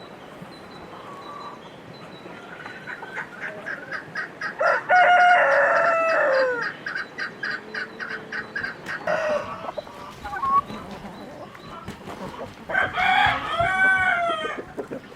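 Chickens clucking in quick short notes that build into a loud, drawn-out call about five seconds in, with a second loud call near the end.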